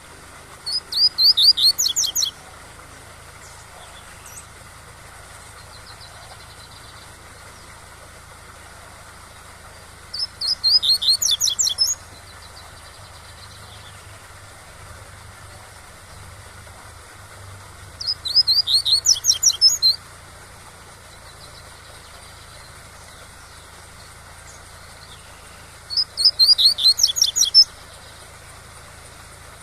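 Coleiro pardo (double-collared seedeater) singing the tui-tui song: four short phrases of quick sweeping notes, about eight seconds apart, over the steady rush of a waterfall.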